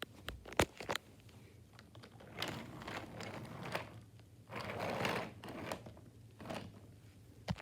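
Small plastic toys being handled on a surface: scattered light clicks and knocks, with rustling that grows for about a second in the middle.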